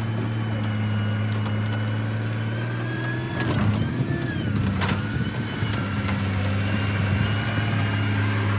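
Heavy diesel engine of construction machinery running steadily, its pitch dipping and recovering briefly about three and a half seconds in, with a sharp knock near five seconds.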